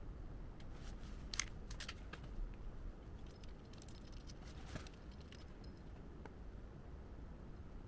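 A few light metallic clicks and clinks from small metal parts being handled, spaced irregularly over a low steady hum.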